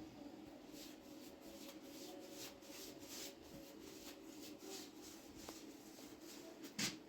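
Faint, irregular rubbing or brushing strokes, about two a second, with one sharp click near the end.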